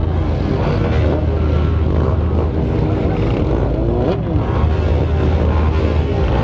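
Several motorcycle engines running and revving together, their pitches rising and falling over one another above a steady low drone, with one sharp rev about four seconds in.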